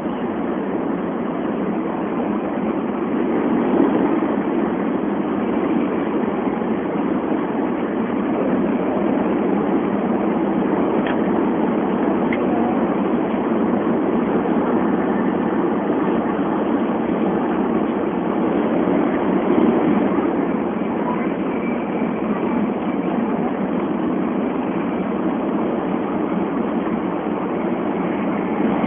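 Steady rushing running noise of a Tokaido Shinkansen bullet train at speed, heard from inside the passenger car.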